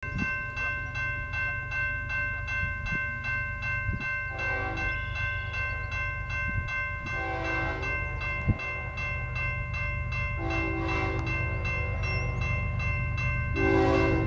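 A lone BNSF diesel locomotive's air horn sounds four blasts, the third the longest, over a bell ringing with fast regular strikes; the locomotive's low engine rumble grows louder near the end as it approaches.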